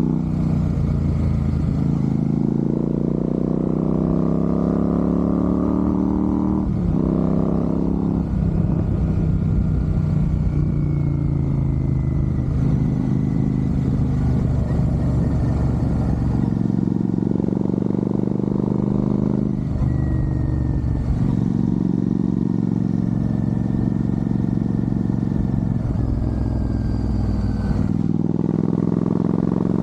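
Royal Enfield Super Meteor 650's parallel-twin engine running under way, its pitch climbing steadily as it pulls and dropping sharply at each gear change, several times over.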